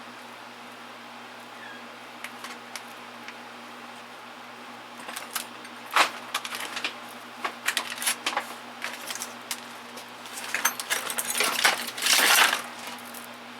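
Small tools and hardware clinking and clattering as they are handled and set into a metal toolbox drawer: a few seconds of only a steady low hum, then scattered clicks, a sharp knock about six seconds in, and a busier rattle near the end.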